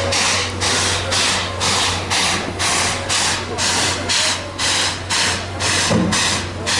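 Steam locomotive exhaust chuffing in an even beat, about two and a half chuffs a second, over a steady low hum. The engine is a C11 class tank engine.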